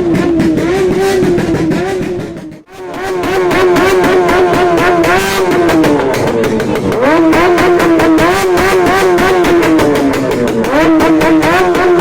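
Motorcycle engines running loudly at a steady pitch, with the engine note sliding down twice as bikes slow or pass. The sound drops out briefly nearly three seconds in.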